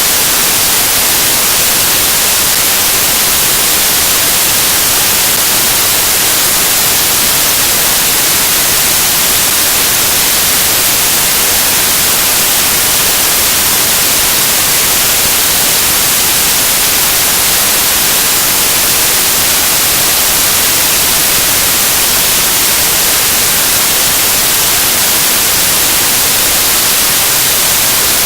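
Loud, steady static hiss, like white noise, that never changes, with no speech or other sound over it.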